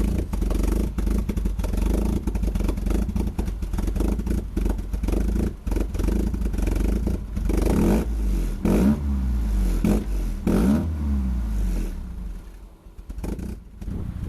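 Freshly rebuilt Volvo B234F 16-valve inline-four running on its first start-up, revved several times so that its pitch rises and falls. About twelve seconds in it drops away almost to nothing, then picks up again.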